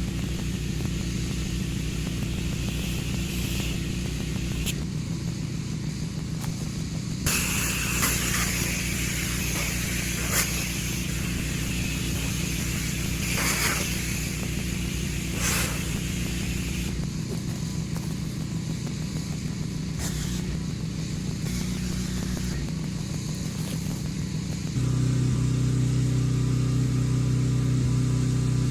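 Pressure washer's gas engine running steadily, with the hiss of the water spray over it for several seconds in the middle. Near the end the engine gets louder and steadier.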